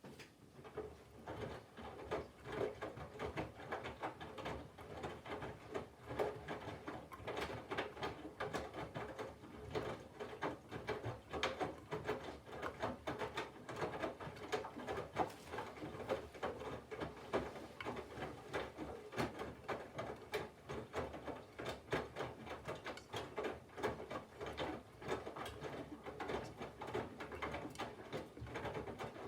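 Candy GVF4 137 LWHC/2 front-loading washing machine's drum tumbling laundry in the cold wash phase, with wet clothes and water sloshing and flopping in irregular soft thuds and splashes. It starts suddenly after a pause.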